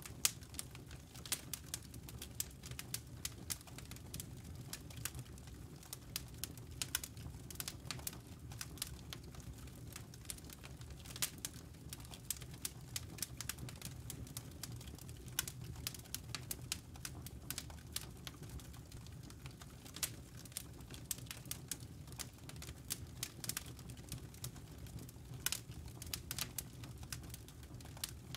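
Burning wood logs crackling: irregular sharp pops and snaps, several a second, over a low steady rumble.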